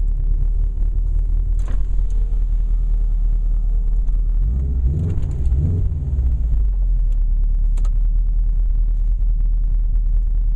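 Subaru WRX wagon's turbocharged flat-four engine idling, heard from inside the cabin: a steady low running sound that wavers briefly in pitch about five seconds in. Two light clicks come a few seconds apart.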